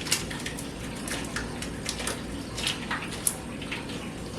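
Butter melting into a pan of hot sauce over low heat, simmering and sizzling with irregular sharp crackles over a steady low hum.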